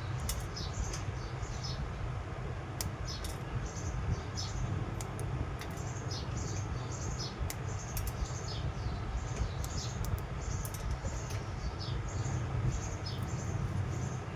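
Small birds chirping over and over in short high calls, over a steady low hum, with a few sharp clicks.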